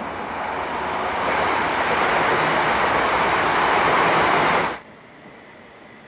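Chiltern Railways diesel multiple unit running past, a steady rushing rumble that grows louder over the first couple of seconds. It cuts off abruptly almost five seconds in, leaving quieter background noise.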